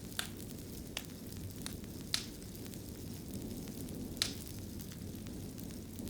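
Wood fire burning in a fireplace: a steady low rumble with sharp crackles and pops at irregular intervals, the loudest three spaced about two seconds apart.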